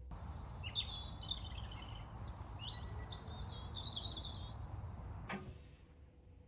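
Small birds chirping and singing in short, partly falling phrases over a steady low outdoor background noise, which cuts off suddenly about five seconds in.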